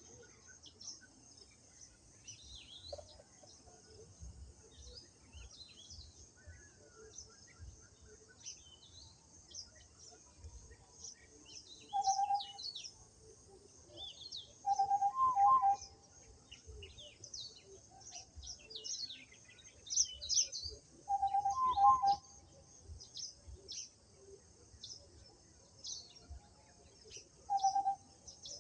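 Birdsong: a chorus of many short, high chirps and trills, with a louder, lower-pitched call repeated about four times, once as a pair of notes.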